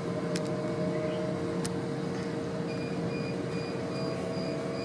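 Interior running noise of a Hitachi Class 800 train under way: a steady rumble with a constant hum-like tone, broken by a couple of sharp clicks in the first two seconds. A faint pulsing high tone comes in about halfway through.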